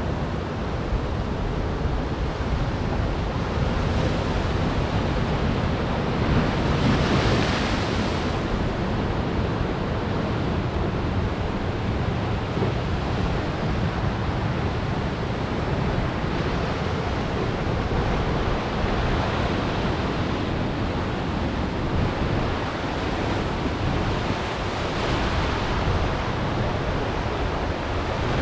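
Atlantic waves breaking on rocks: a continuous rush of surf that swells as each wave crashes, the biggest about seven seconds in, with wind buffeting the microphone.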